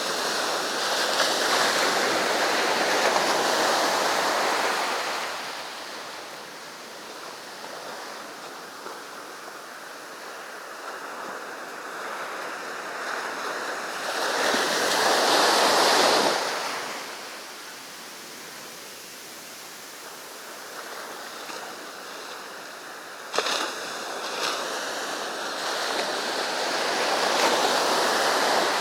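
Sea waves breaking on a beach: the surf swells loudly near the start, again about halfway and once more near the end, with a quieter wash of water between.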